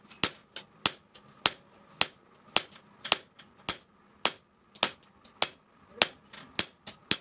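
Blacksmith's hand hammer striking steel on an anvil in a steady rhythm, about two heavy blows a second with lighter taps between them. Each blow rings with a metallic ring.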